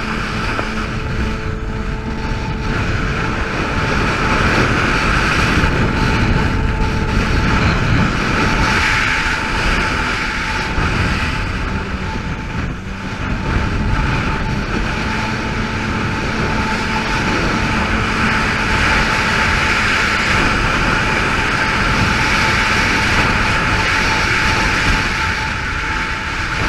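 Yamaha GP800 jet ski's two-stroke twin engine and jet drive running steadily at speed, with a steady whine running through it.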